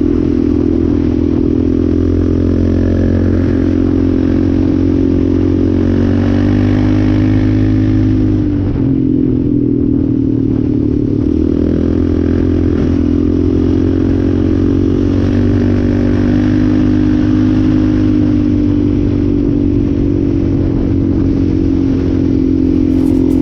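Yamaha Raptor 700R quad's single-cylinder four-stroke engine running under steady throttle while riding. The pitch drops briefly about nine seconds in as the throttle eases, then comes back up.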